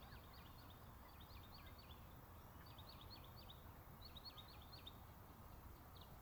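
A songbird repeating short phrases of quick, high chirps about once a second, faint over a steady low outdoor rumble.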